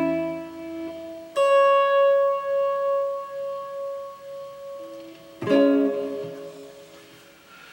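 Kit-built electric guitar played through a Blackstar amplifier: a chord rings and fades, a single note is picked about a second and a half in and rings out for several seconds, and another chord is struck near five and a half seconds in and dies away.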